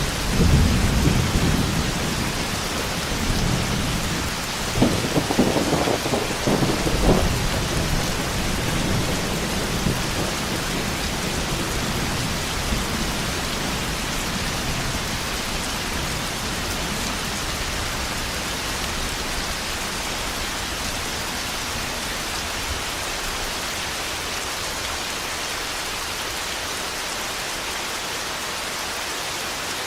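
Thunderstorm with steady heavy rain. Thunder rumbles in the first few seconds and breaks into a few sharp cracks around five to seven seconds in, then dies away, leaving only the rain.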